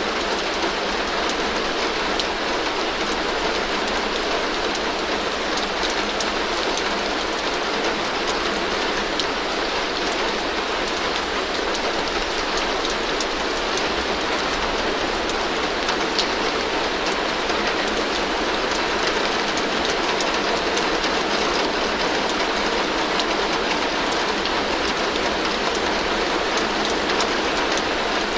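Heavy rain falling steadily on a tin roof, an even hiss with many small drop ticks and no change in strength.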